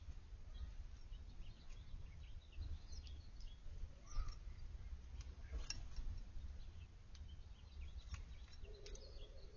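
Small backyard birds giving scattered short chirps and calls over a steady low rumble, with a brief lower-pitched sound near the end.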